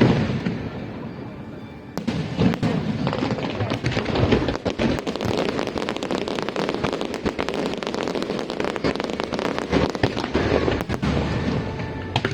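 A fireworks display going off: a loud bang at the start, then from about two seconds in a dense, continuous crackle of many small bursts.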